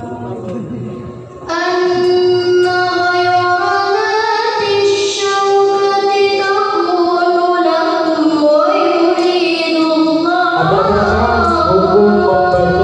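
A female voice singing long, held, ornamented melodic phrases, in the style of sholawat or Quran recitation.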